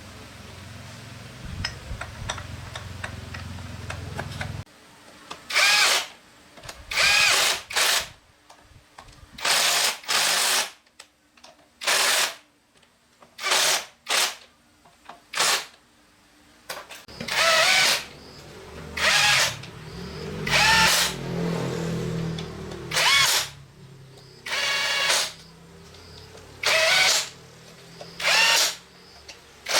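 A handheld power tool run in about fifteen short bursts, each under a second, its pitch rising and falling within each burst. A low steady hum cuts off about four and a half seconds in.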